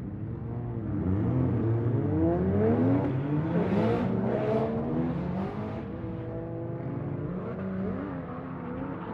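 Several drift cars' engines revving hard at once, their pitches climbing and falling as they slide through a corner in tandem, with a few short harsh bursts near the middle.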